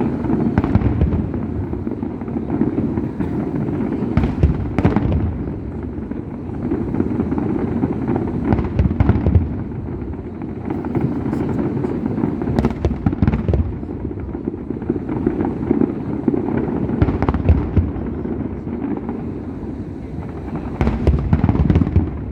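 Fireworks display: a dense, continuous rumble of shell bursts with many sharp cracks, swelling into heavier volleys several times.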